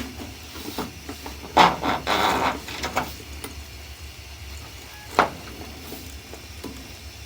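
Handling noises from sewer-inspection camera gear: a sharp knock at the start, about a second of scraping and rustling, and another knock about five seconds in, over a steady low hum.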